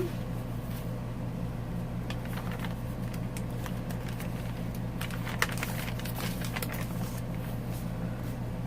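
Scattered light rustles and ticks of paper, card tags and dangling charms as a handmade paper journal's pages are handled and turned, over a steady low hum, with one sharper tick about five and a half seconds in.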